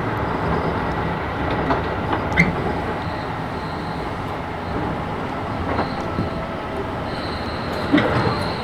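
Keisei 3000 series electric train running, heard from inside the car: a steady rumble of wheels on rail with a few sharp rail-joint clicks, and a faint high squeal that comes in near the end.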